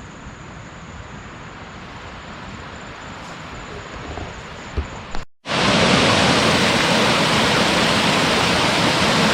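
Steady rushing noise of water and wind, quieter at first with a single knock. After a sudden cut about halfway through, the loud, even rush of a nearby monsoon waterfall or stream.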